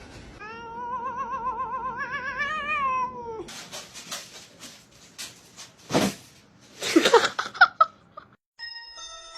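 A cat yowling: one long, wavering caterwaul lasting about three seconds, followed by scuffling noises and a few short, sharp cries. Light chiming music comes in near the end.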